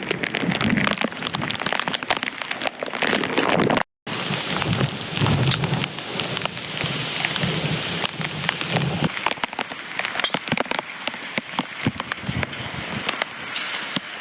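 Heavy hurricane rain falling steadily, with many sharp raindrop clicks close to the microphone. The sound cuts out for a split second about four seconds in.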